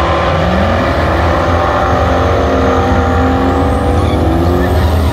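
Loud drag car engine running at the starting line, a steady low rumble with a short rise in pitch about half a second in.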